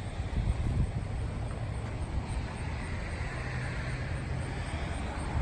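Low, steady rumble of a motor vehicle running, without speech.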